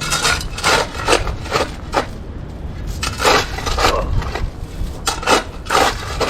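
Shovel digging into compacted dirt and crushed-gravel base: a run of short scraping, crunching strokes, roughly two a second, with brief pauses.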